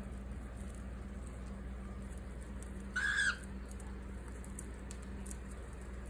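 Cockatiel giving one short, loud chirp about three seconds in, over faint scattered clicks of a beak working at a piece of wood.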